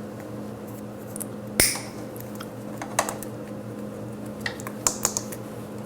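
A single sharp snip from cutters about a second and a half in, then a few lighter clicks of parts being handled, over a steady low hum.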